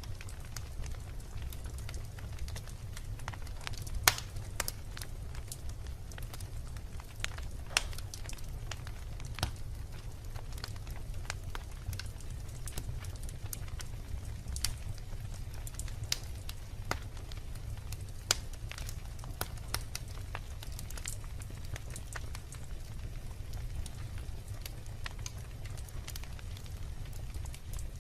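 Wood logs burning in a fireplace: a steady low rumble of the fire with irregular sharp crackles and pops, a few louder snaps among them.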